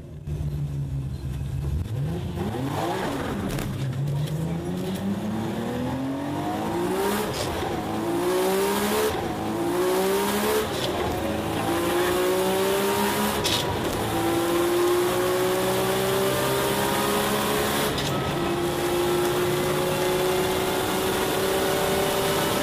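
Top Secret-tuned 1200 hp Nissan Skyline GT-R straight-six at full-throttle acceleration, heard from inside the cabin. The engine note climbs through each gear and drops back at every upshift, about six times, and each gear lasts longer than the one before as the car heads toward its 328 km/h top speed.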